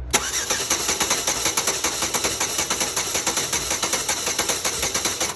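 Starter cranking the 2007 Chevy Impala's 3.5 L V6 over without it firing, an even rapid pulsing that starts abruptly and stops after about five seconds: a compression test, here on a cylinder that reads a good 200-plus psi.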